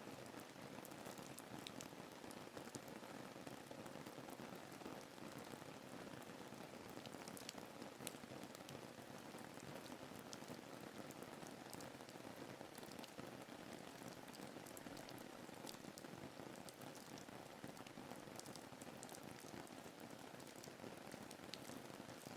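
Soft, steady rain ambience: an even hiss with many fine droplet patters.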